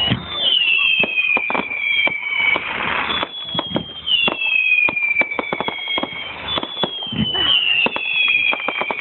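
Fireworks going off: a stream of bangs and crackles, with several high whistles that each slide downward in pitch over a couple of seconds.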